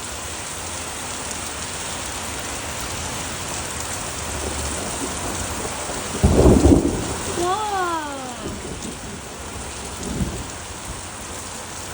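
Very heavy rain pouring down steadily, with a loud clap of thunder about six seconds in that rumbles for a couple of seconds, and a shorter rumble of thunder near the end.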